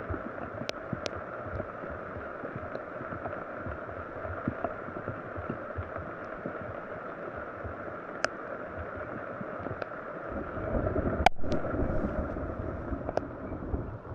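A steady rush of water, with scattered sharp drips and ticks. About ten and a half seconds in it grows louder and deeper, with a single sharp knock about a second later.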